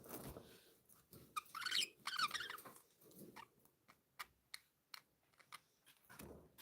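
Pet budgerigars chirping in a short flurry about two seconds in, then a scatter of light, sharp clicks and ticks.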